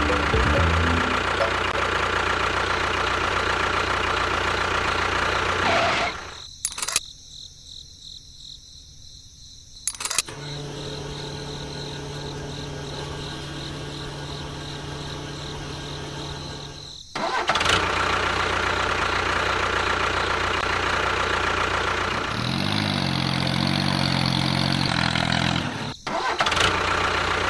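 Engine sounds in several short segments that cut abruptly from one to the next, with a quieter stretch holding a steady low hum.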